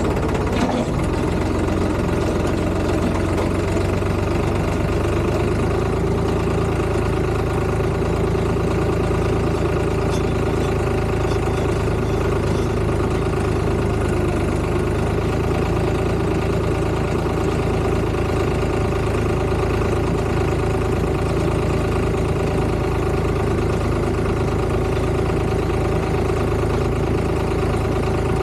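Tractor engine running steadily at a constant speed, with a brief knock near the start.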